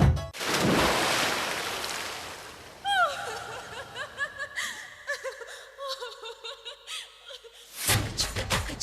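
Sound effects between songs of a recorded dance track: a rushing noise that fades away over about two and a half seconds, then a run of short falling chirps and wavering calls. Music with a beat comes back near the end.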